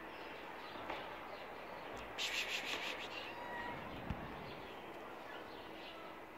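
Birds chirping in the background, with a short rasping, pulsing sound about two seconds in and a single sharp tick about four seconds in.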